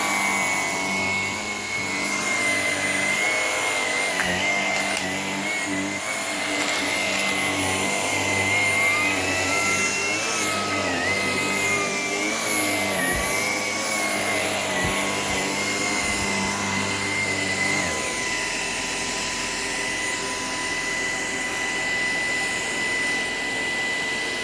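Shark PowerDetect cordless vacuum running steadily in reach mode, its motor whining. About nine seconds in the whine rises in pitch, then slowly settles back down.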